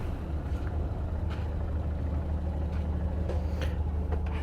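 Motorcycle engine running steadily at low speed, with a few faint ticks over it.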